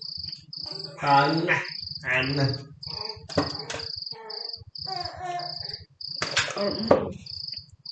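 Cricket chirping in an even, high-pitched pulse of about two chirps a second, with indistinct voices talking over it, louder than the chirping, and a couple of sharp clicks.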